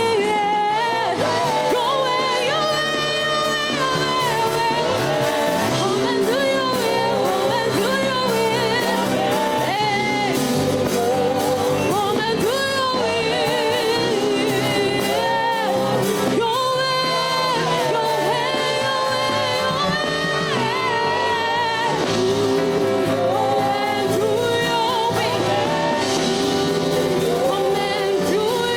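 Gospel worship music: a singer holding wavering, melismatic lines over sustained keyboard chords at a steady level.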